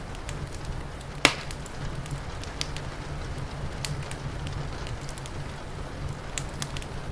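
Wood fire crackling, with scattered sharp pops and one loud pop about a second in, over a steady low rumble.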